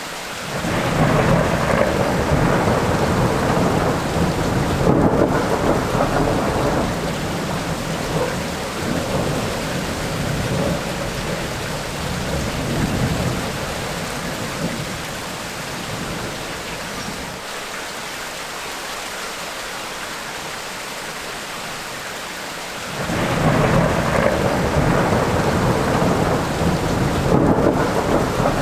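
Tropical rainstorm: steady rain with rolling thunder. One long rumble starts about a second in and dies away over some thirteen seconds, leaving only the rain, then a second rumble rolls in near the end.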